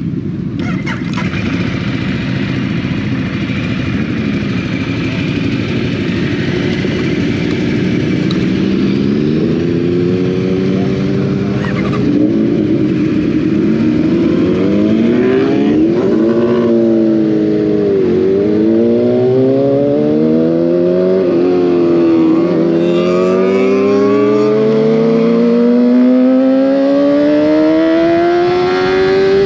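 Motorcycle engine accelerating through the gears: a steady rumble at first, then from about a third of the way in its pitch climbs, drops back at each shift, and climbs again.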